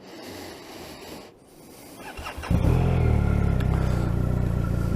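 BMW R 1250 RT motorcycle's boxer-twin engine started with the electric starter: a faint hum, then brief cranking that catches about two and a half seconds in, and the engine settles into a steady idle.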